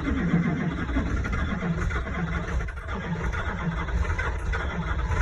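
Duramax turbo-diesel engine struggling to start in deep cold, cranking with an uneven pulsing and catching into a rough low-rumbling run: a hard cold start that only barely succeeds, with the block preheated by a heater.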